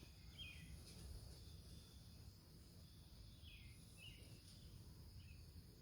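Near silence: a few faint, short bird chirps over a steady faint insect buzz and a low rumble of light wind on the microphone.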